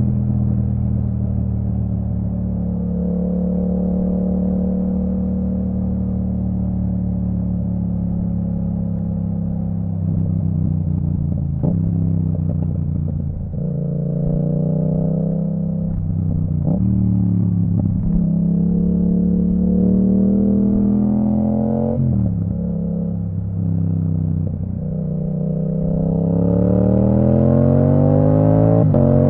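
Yamaha MT-07's 689 cc parallel-twin engine through an Akrapovic full titanium exhaust with the dB killer out, riding at a steady note for about ten seconds. It then goes through a run of gear changes, the pitch dropping and picking up again in steps with short clicks between. Near the end it accelerates hard with a steadily rising note.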